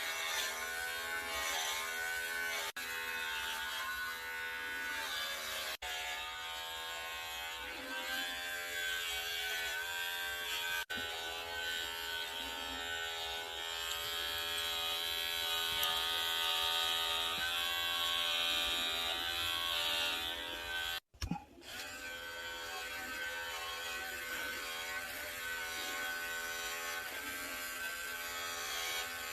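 Electric hair clippers running with a steady buzz while trimming a cat's fur, with a brief break about two-thirds of the way through.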